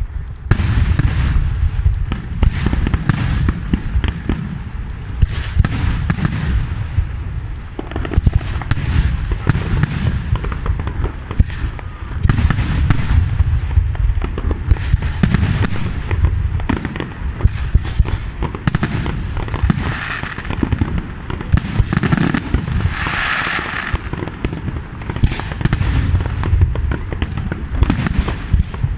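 Aerial firework display: shells bursting in a rapid, unbroken barrage of sharp bangs over a continuous deep rumble.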